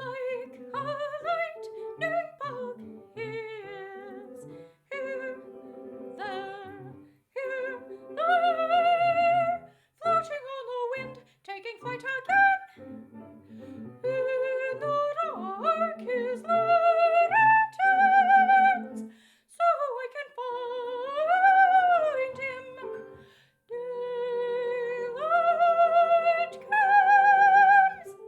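Solo soprano singing an operatic arietta with vibrato over piano accompaniment played back from a separate device, in short phrases with high held notes. The room's sound is audible in the recording.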